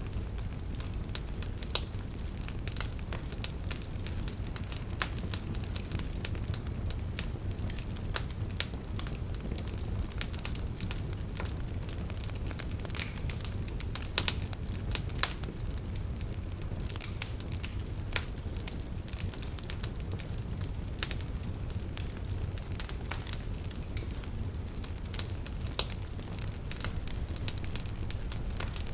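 Wood fire burning in a fireplace: a steady low rumble with many irregular sharp pops and crackles, a few louder snaps among them.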